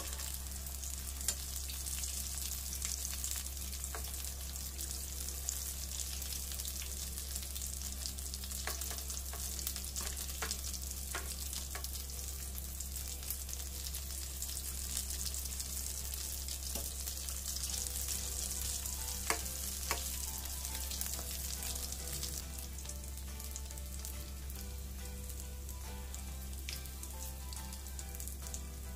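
Samosas deep-frying slowly in oil on a low flame: a steady sizzle with scattered small pops.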